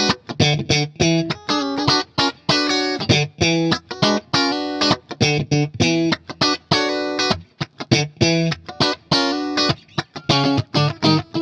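Electric guitar with Leosounds Fireball pickups played through a clean Fender Bassman amp: short, separated chords and single notes in a choppy rhythm, with brief gaps between them.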